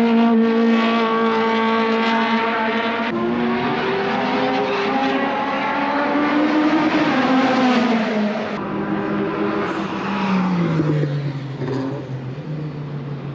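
Time-attack race car engines running hard on a circuit, the engine note rising and falling with throttle and gear changes. The sound changes abruptly twice, and near the end a single note falls steadily in pitch.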